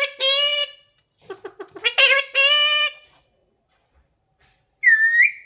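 A parrot talking, imitating human speech at a high, nearly flat pitch in two short phrases, then a brief high-pitched call near the end.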